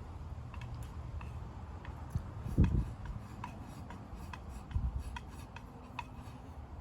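Wood campfire crackling, with scattered irregular pops over a low rumble, and a louder dull thump about two and a half seconds in.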